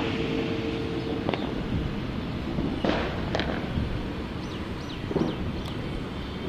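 Boeing 787 jet engines running at low taxi power: a steady rumble, with a tone that fades out about a second in. A few sharp clicks or pops come over it.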